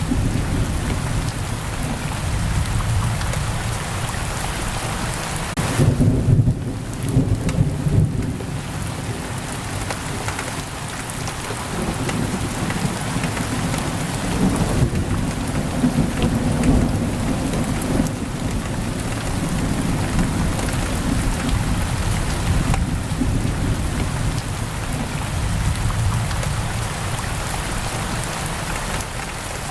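Heavy rain pouring steadily on a window, with a low rumble of thunder that swells about six to eight seconds in.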